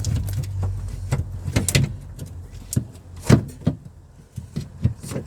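Knocks and clinks of hand tools and parts during a steering rack installation: irregular sharp strikes, the loudest about three seconds in, after a low steady hum that dies away within the first second.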